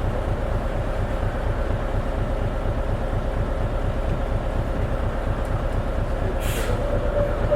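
Diesel engine and drivetrain of an Isuzu KL-LV280N1 city bus heard from inside the cabin while driving: a steady low rumble with a steady whine running through it. A short hiss comes about six and a half seconds in.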